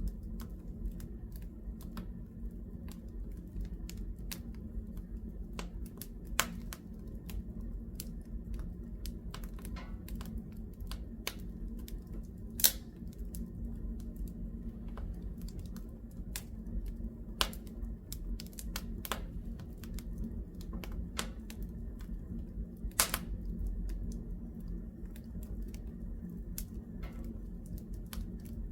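Wood fire crackling in a fireplace: irregular sharp snaps and pops over a steady low rumble, with two louder pops near the middle and about four-fifths of the way through.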